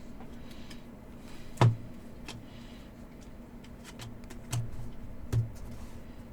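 Light taps and clicks of trading cards and packs being handled and set down on a table, a few separate knocks with the sharpest about a second and a half in, over a steady low hum.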